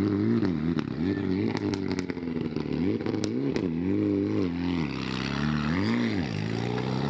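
Rally car engine revving up and down repeatedly in quick blips, the pitch rising and falling about once a second. A few sharp clicks come about one and a half to three and a half seconds in.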